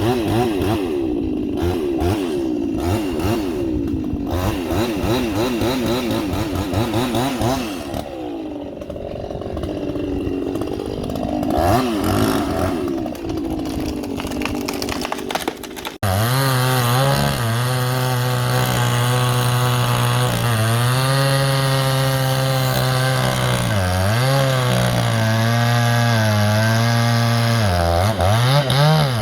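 Chainsaw running and cutting into a tree trunk. About halfway through, the sound changes abruptly to a closer, steadier engine note whose pitch sags several times as the chain bites into the wood under load.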